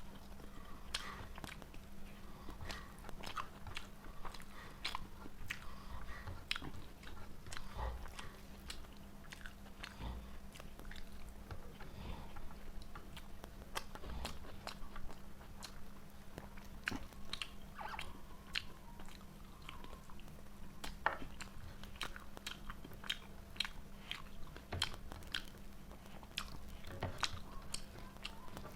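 A person eating fried rice and chicken close to the microphone: chewing and biting with many short, irregular mouth clicks, over a low steady hum.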